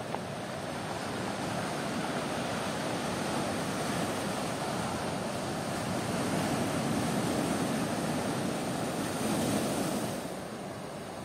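Ocean surf washing in, the sound building over several seconds and easing off near the end.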